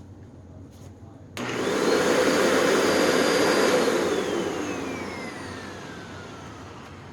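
Hoover NanoLite upright vacuum's motor switched on about a second in, whining up to speed, running briefly, then switched off and winding down with a long falling whine. The belt is fitted but the brush roll stays still in hard-floor mode, so the motor runs without driving it.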